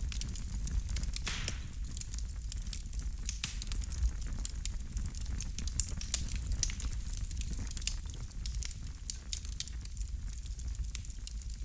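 Wood fire crackling in a fireplace: irregular sharp pops and snaps over a low steady rumble of the burning logs, with a brief hiss about a second and a half in.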